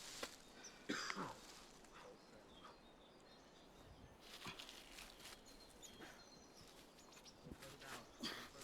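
Near silence outdoors: faint bird chirps and a few scattered rustles and clicks.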